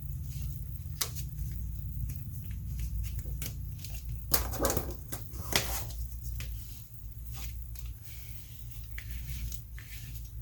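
Hands handling and pressing paper: scattered light taps and rustles, with two louder crinkles about halfway through, over a steady low hum.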